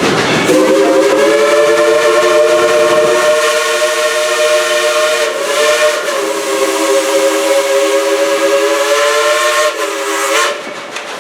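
Steam whistle of steam locomotive No. 70 sounding one long blast of about ten seconds, a chord of several notes held steady with a slight waver near the middle, over a hiss of steam.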